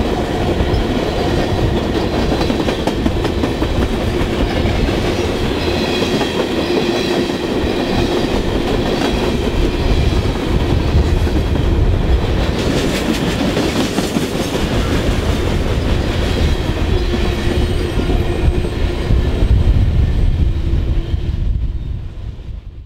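Freight cars of a mixed manifest train, boxcars and gondolas, rolling past at speed. The wheels keep up a steady rumble and clickety-clack over the rail joints. The sound fades away in the last second or so.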